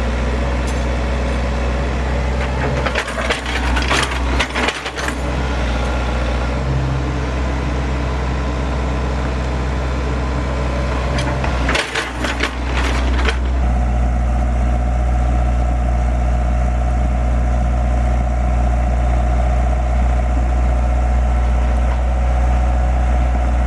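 Heavy machine's diesel engine running steadily, with two spells of rapid cracking and snapping, like wood or metal being broken or scraped, a few seconds in and again about halfway through. A steady higher hum joins the engine after the second spell.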